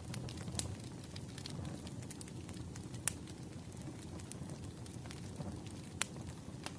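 Wood fire crackling steadily with a low rumble and occasional sharp pops, the loudest about three and six seconds in.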